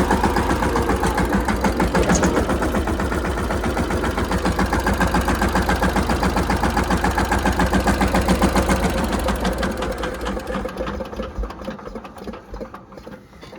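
Mahindra Yuvraj 215 tractor's single-cylinder diesel engine running with a fast, even firing beat, fading away over the last few seconds.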